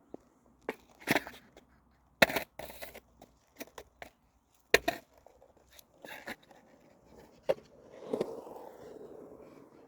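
Skateboard knocking and clacking: a string of sharp, separate knocks, the loudest about two and five seconds in, then a rough steady noise near the end.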